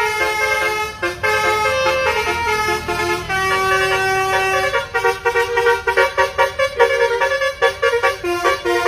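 Bus basuri, a multi-trumpet musical air horn, playing a melody: held notes stepping from pitch to pitch, then from about five seconds in a fast run of short staccato notes.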